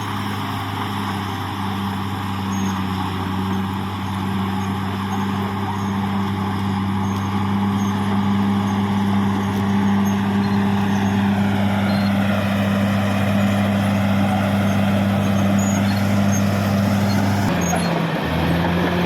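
Caterpillar D6R XL bulldozer's diesel engine running steadily under work, with a higher whine that bends up and down in the second half and the engine note dropping near the end.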